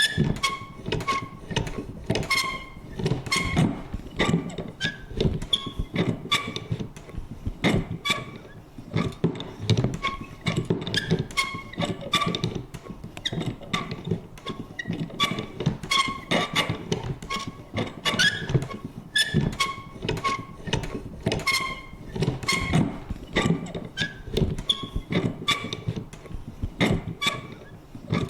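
Vintage paper punch working over and over: sharp clicks and thunks several times a second in an uneven rhythm, with short squeaky creaks of the mechanism.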